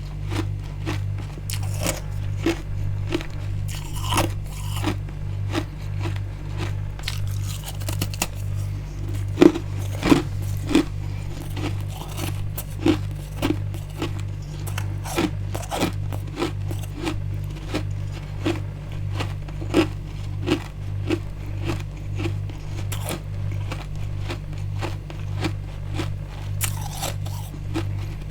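Freezer frost and ice being bitten and chewed, a continuous run of sharp crunches, loudest about a third of the way in. A steady low hum pulses about twice a second underneath.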